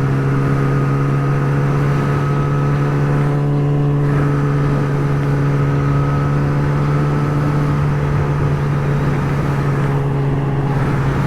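Yamaha R6's inline-four engine with a slip-on exhaust running at a steady cruise, its pitch holding level, under a constant rush of wind noise.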